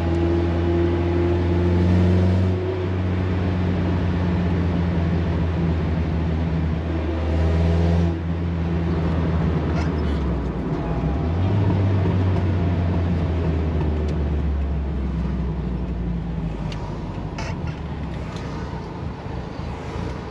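Toyota Corolla AE86 engine running while the car drives, heard from inside the cabin with road noise. The engine note climbs about two seconds in and again near eight seconds, drops off, then picks up again a few seconds later.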